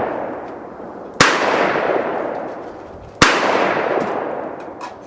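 Two loud gunshots about two seconds apart, each followed by a long echoing tail that fades away.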